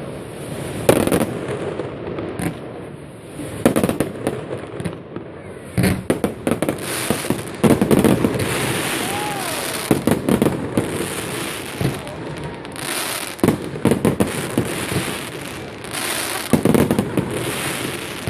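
Fireworks display: aerial shells bursting in a rapid, irregular series of bangs, with crackling from the bursts between them.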